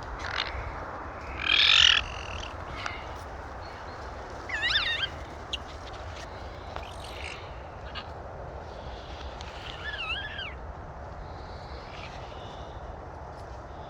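Wind buffeting the microphone as a steady low rumble. Over it come a few short, high, wavering calls: a loud one under 2 seconds in, and quieter ones near 5 and 10 seconds.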